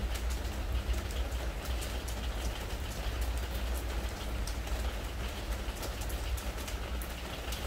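Spring rain falling on a treated-wood deck: a steady patter with many sharp individual drop ticks, over a steady low rumble.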